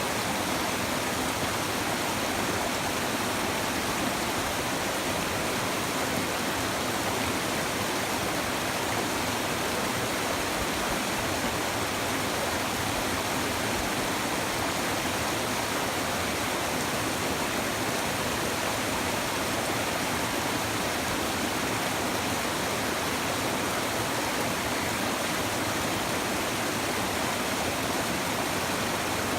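A shallow river babbling over stones: steady, even rushing of flowing water with no change.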